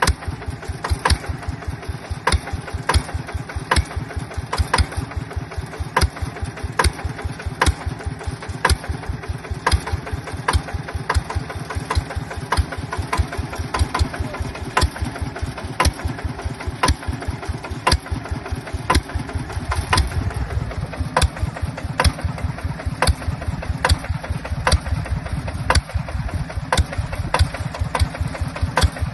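Yanmar TF150 single-cylinder diesel engine running steadily with a fast, even chug and a sharp clack about once a second. The low chugging grows somewhat heavier about two-thirds of the way through.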